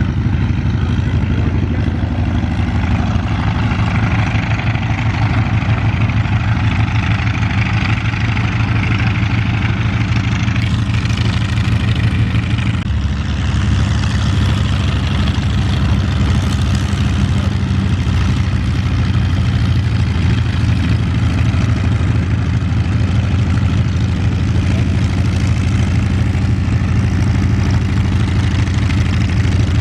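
WWII fighter's piston aero engine running steadily at low power, its note shifting slightly about halfway through.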